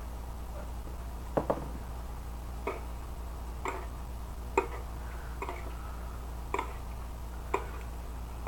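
A fork knocking lightly against a plate, about once a second, while hot sauce is mixed into instant noodles, over a steady low hum.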